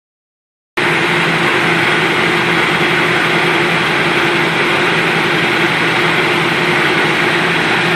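A steady machine drone with a constant hum, starting abruptly under a second in and running evenly with no change in speed.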